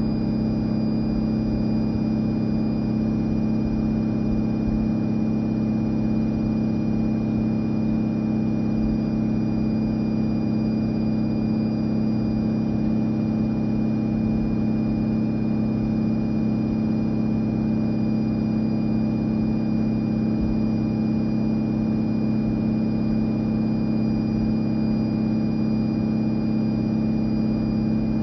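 Fisher & Paykel IW812 top-loading washing machine spinning at a steady speed: its direct-drive motor gives a constant hum with a thin high whine over it.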